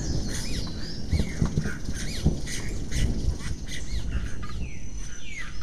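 Birds calling, a busy chorus of many short, arching chirps repeated throughout, over a low, uneven rumble with soft knocks.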